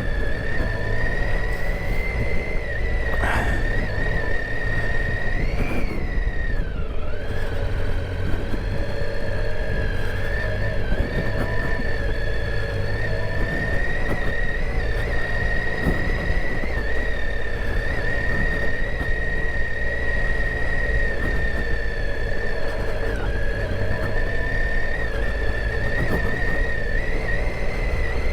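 Triumph Tiger 800 XCa's three-cylinder engine running at low, fairly even revs on a rough trail, a low rumble under a steady high whine that rises and falls back briefly about six seconds in.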